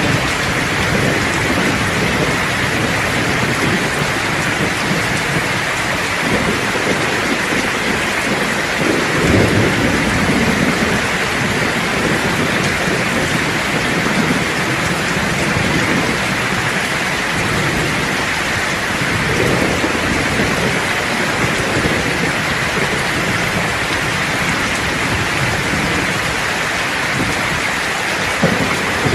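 Steady rain falling in a thunderstorm, with low rolls of thunder swelling up a few times: about nine seconds in, around nineteen seconds, and near the end.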